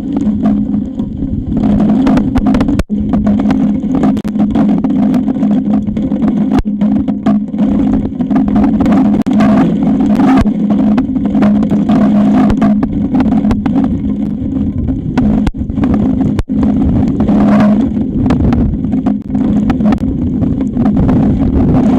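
Strong wind buffeting an eagle nest camera's microphone: a loud, steady rumble that cuts out for an instant a few times.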